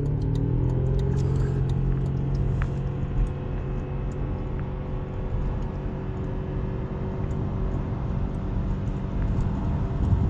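Car engine pulling through an acceleration run: the engine note rises over the first second, then holds at a nearly steady pitch over a continuous low rumble of engine and road noise.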